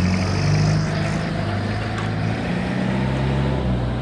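Perkins 4203 four-cylinder diesel of a 1962 Lansing Bagnall forklift running under way as the truck is driven, its engine note rising and falling slightly; it is running steadily after being repaired from a no-start.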